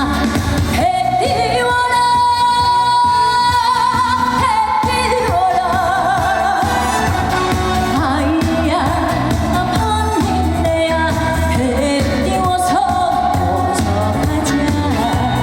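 A woman singing a Korean folk-song (minyo) medley in a pop-trot arrangement over a backing track with a steady beat, holding long notes with a wavering vibrato.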